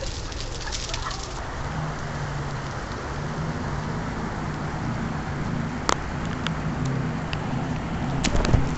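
Steady rain falling, with a low steady hum underneath and a single sharp click about six seconds in.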